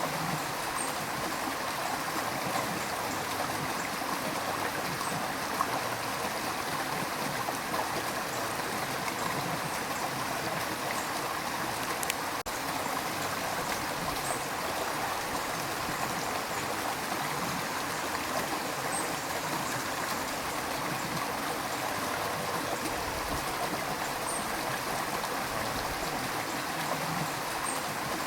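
River water rushing and babbling over rocks, a steady, even flow. There is a momentary dropout about twelve seconds in.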